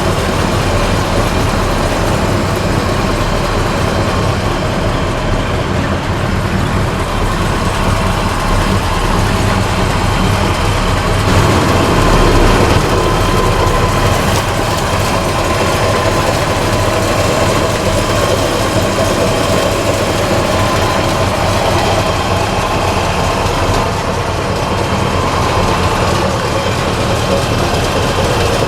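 1966 Chevrolet C-10 pickup's 350 V8 running steadily, with a brief swell in level about twelve seconds in.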